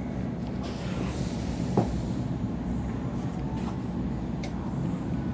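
Steady low rumble inside the carriage of a Sydney Trains Waratah A set electric train, with one brief sharp sound about two seconds in.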